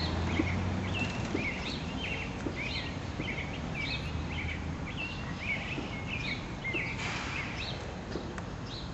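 A small bird chirping over and over in a quick run of short high notes, over steady outdoor background noise with a low hum in the first half.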